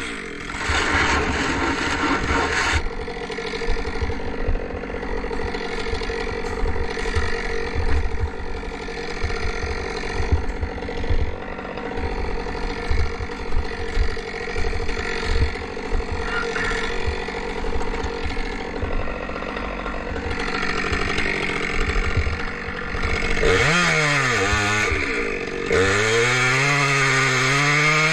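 A Stihl MS 462 two-stroke chainsaw runs at high revs through a cut. Near the end it throttles down and back up twice.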